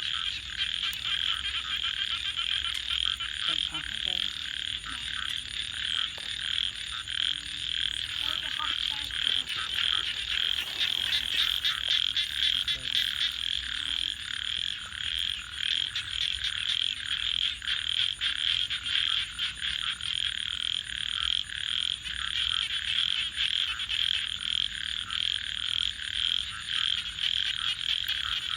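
A dense chorus of frogs calling continuously, with the scattered pops of a crackling wood fire.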